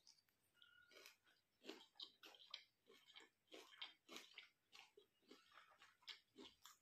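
Faint, irregular crunching of a person chewing a mouthful of raw grated carrot and beetroot salad.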